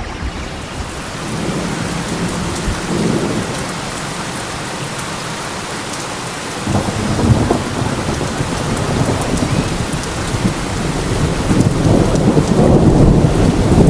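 Steady rain falling with rolling thunder over it: a low rumble comes in about a second and a half in, a stronger one just before seven seconds, and the rumbling grows louder toward the end.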